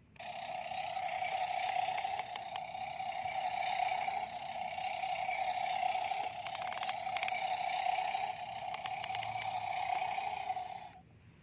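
Small electric motor and gears of a toy construction vehicle whirring steadily, with a brief rattle of clicks midway, then cutting off suddenly near the end.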